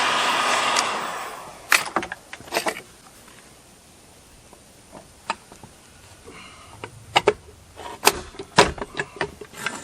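A hiss that fades out over the first second, then scattered light clicks and knocks of metal chainsaw crankcase parts and a gasket being handled and fitted.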